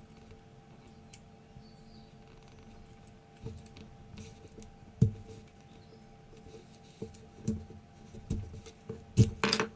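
Small metal calculator parts clinking and tapping as they are handled, with a few separate sharp clicks that grow busier near the end. A faint steady hum lies underneath.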